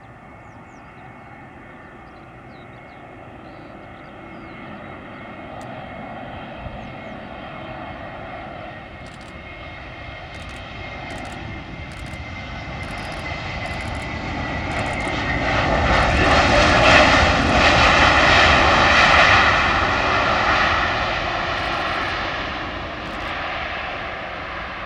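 Jet airliner passing close by on landing approach: the engine noise builds slowly, is loudest about two thirds of the way through, then fades, with a whine that drops in pitch as the aircraft goes by.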